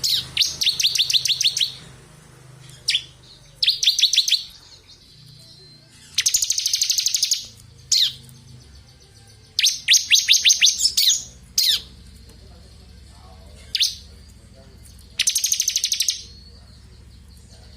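Bar-winged prinia (ciblek kristal) singing in about five fast, high trilled bursts of a second or so each, with single short notes in the pauses between them.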